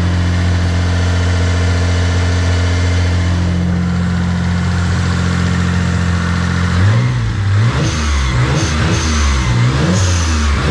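A 1991 Mitsubishi GTO's 3.0-litre twin-turbo V6 idling steadily. From about seven seconds in it is revved several times in quick blips, its pitch rising and falling each time. The engine has just been fitted with a new harmonic balancer and freshly tightened belts.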